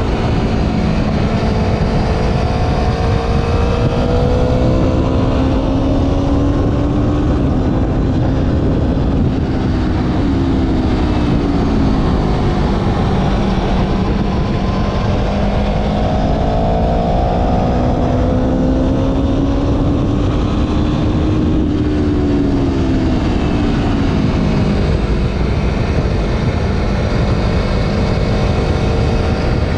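Motorcycle engine running at riding speed, its pitch rising and falling gently over several seconds as the throttle is eased on and off, under a steady rush of wind noise.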